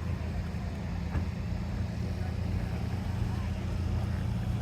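A car engine running at idle, a steady low rumble, with faint voices in the background.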